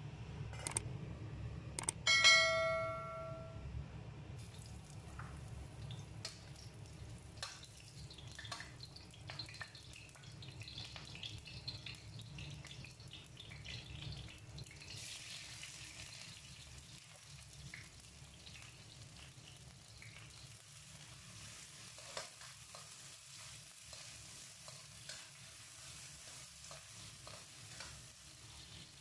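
Onion and bell pepper stir-frying in oil in a wok: a steady sizzle with the clicks and scrapes of a spatula stirring, the sizzle growing brighter about halfway through. A loud bell-like ding rings out about two seconds in.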